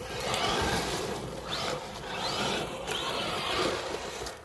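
Electric RC truck being driven hard through a muddy puddle: its motor whine rises in pitch a few times over the steady hiss of wheels churning mud and water.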